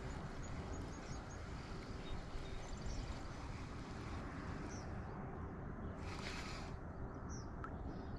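Open-water ambience from a kayak: a steady low rumble of wind on the microphone, faint short bird chirps, and a brief splash-like hiss about six seconds in.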